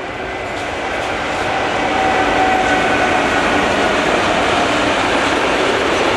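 Train running past on the track, its rumble growing louder over the first two seconds and then holding steady and loud, with a few faint steady high tones over it.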